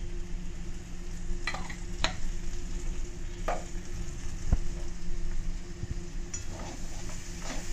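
Green peas and chopped vegetables sizzling in hot oil in a metal kadhai as more oil is added, over a steady low hum. A few short clicks and scrapes come through, and near the end a metal slotted spatula starts scraping through the pan to stir.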